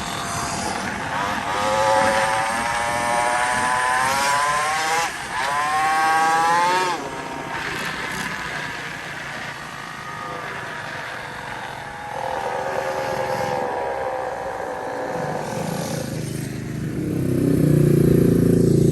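Small motorbike engines riding on the street, the pitch revving up and down several times in the first seven seconds, then a steadier engine note; near the end a louder, deeper engine sound builds up close.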